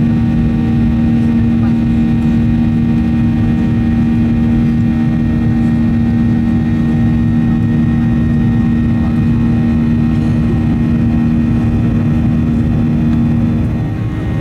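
Boeing 737-800's CFM56-7B jet engines heard from inside the economy cabin during the climb after takeoff: a loud, steady drone with a strong hum, dipping slightly just before the end.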